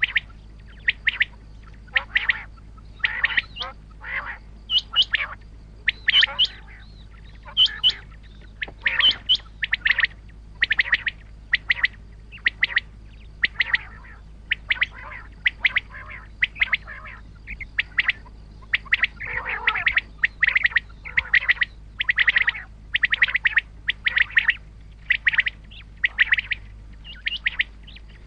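Common quail calling over and over: short, sharp calls repeated about one to two a second, over a steady low hum.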